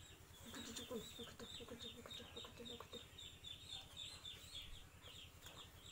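Faint bird calls: a steady run of short, high, downward chirps, several a second, with a lower series of repeated calls for about the first half.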